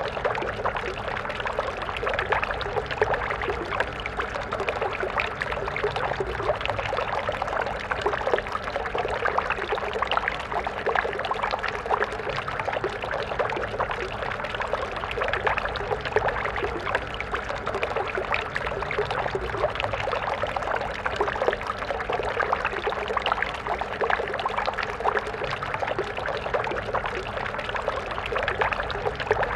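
Stream water flowing steadily over stones, a continuous babbling and splashing with no change over the stretch.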